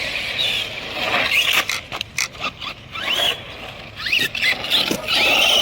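Electric RC cars racing, their motors and drivetrains whining up and down in pitch as they speed up and slow down, several times, with a longer whine near the end. Short tire scrapes and clicks are mixed in.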